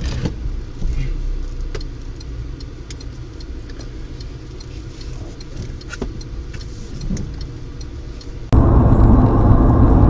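Car driving, heard from inside: a steady low rumble of engine and road with a few faint clicks. About eight and a half seconds in, it cuts abruptly to a much louder rumble.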